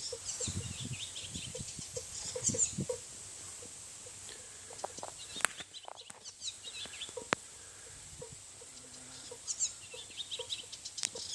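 Birds and farmyard fowl calling: bursts of high chirping over a soft low call repeating about three times a second, with a steady high-pitched whine and a few sharp clicks.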